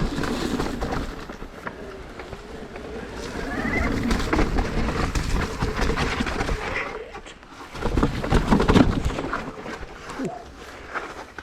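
Mountain bike descending a wet, sandy downhill trail: tyre noise and rattling of the bike over the ground, with many sharp knocks from bumps, loudest about eight to nine seconds in.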